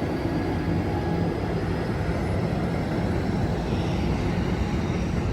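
Amtrak San Joaquin passenger train rolling through the station: a steady low rumble of the locomotive and cars on the rails, with a faint high whine that slowly falls in pitch.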